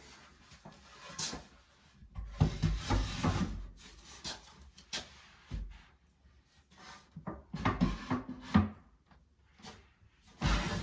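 Irregular knocks, clunks and rattling of wood and tools being handled and set down, in short bursts with pauses between.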